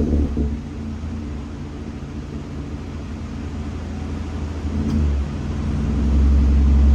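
A 2017 Honda Accord LX's 2.4-litre four-cylinder engine with a muffler delete running, heard from inside the closed cabin as a low rumble. The rumble swells louder about five to six seconds in.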